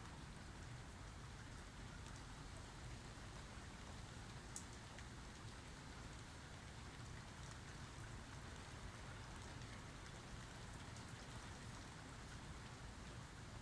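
Light rain falling steadily, an even patter with scattered sharper drop ticks, one standing out about four and a half seconds in.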